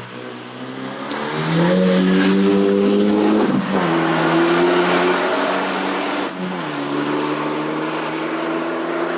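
Renault Mégane III RS 250's turbocharged four-cylinder engine, exhaust straight-through with resonator and muffler deleted. The note rises about a second in and is held steady at higher revs, then drops in two steps and holds at each new pitch.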